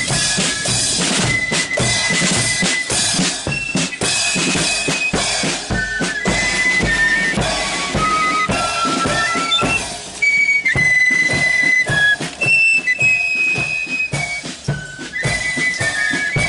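Marching flute band playing a tune: high flutes carry the melody over bass drum and snare drums. About ten seconds in, the drumming thins out and the flutes come to the fore.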